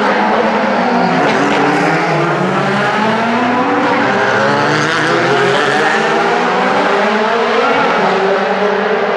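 Several DTM race cars' V8 engines running together at low speed, their overlapping engine notes rising and falling.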